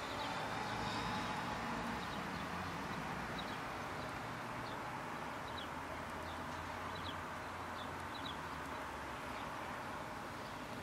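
Quiet outdoor background: a steady low hum and hiss, with faint short bird chirps every second or so.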